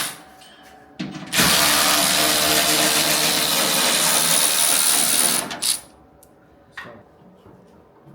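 Handheld power tool spinning in two bursts, a short blip about a second in and then a steady run of about four seconds that stops abruptly, followed by a few light clicks. It is backing out the fender bolts.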